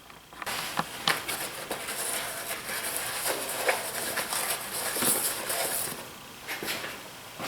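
Hands working on planer parts: a run of light clicks and knocks over a rustling, hissy rub, dying down near the end.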